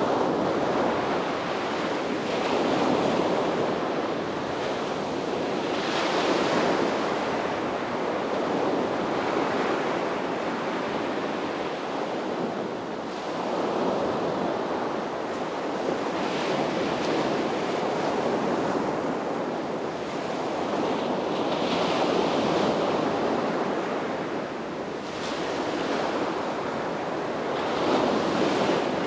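Sea waves breaking and washing onto a beach, rising and falling in swells every few seconds, with a light rush of wind.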